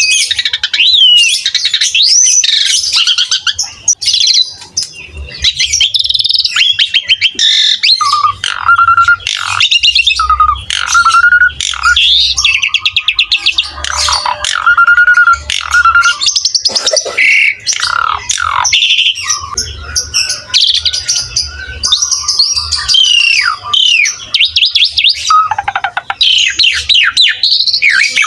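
Asian pied starling (jalak suren) singing loudly and almost without pause: a dense, varied run of clear whistles, sweeping glides, fast trills and harsh rattling notes.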